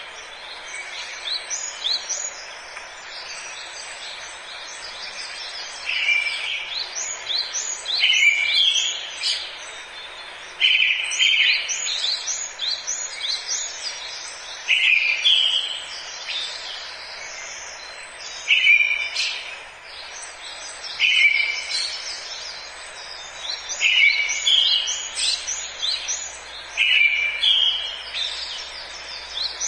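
Forest birdsong: several birds chirping quickly and high throughout, while one bird repeats a louder short phrase every two to three seconds from about six seconds in, over a steady background hiss.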